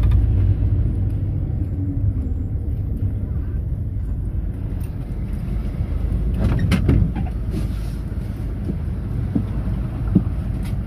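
Mercedes-Benz Sprinter minibus under way, a steady low engine and road rumble heard from inside the cabin, with a few short rattles and knocks a little past the middle.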